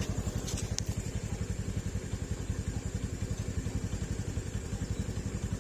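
Small engine running at a steady speed, with a rapid, even beat.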